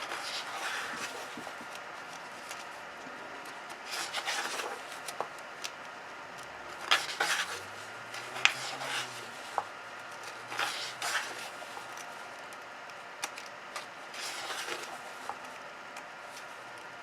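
Paper pages of a coloring book being turned one after another, each turn a brief rustling rub, about six turns spread through the stretch.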